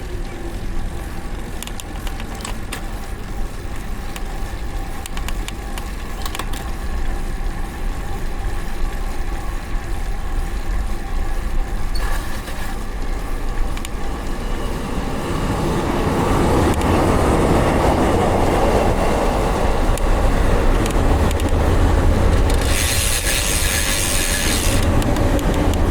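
A train passing close by: a low rumble builds from about fifteen seconds in to a loud, steady roar, with a high-pitched noise lasting about two seconds near the end.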